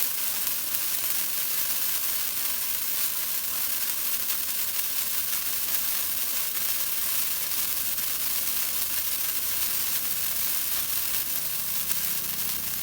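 Golden rain firework burning, throwing out sparks with a steady, unbroken hiss.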